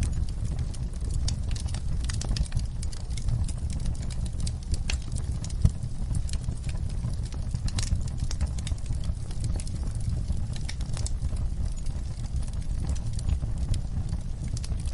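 Wood fire burning in a fireplace, crackling with frequent sharp irregular pops over a steady low rumble of the flames.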